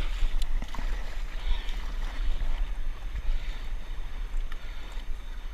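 Wind buffeting the microphone in a steady low rumble, with water lapping against a stand-up paddleboard.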